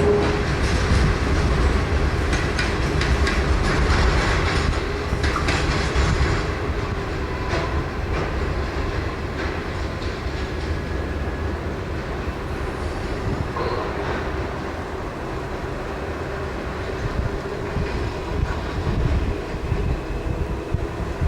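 Freight train rolling through, with a steady low rumble and wheels clicking over the rail joints in the first few seconds. The sound slowly fades.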